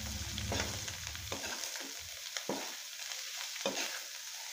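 Karela stuffing frying in oil in a metal kadhai, sizzling steadily, while a slotted spoon stirs it and scrapes the pan in short strokes about twice a second.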